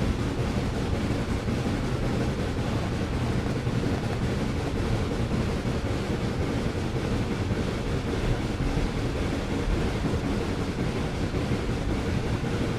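Steady rumble of a moving train.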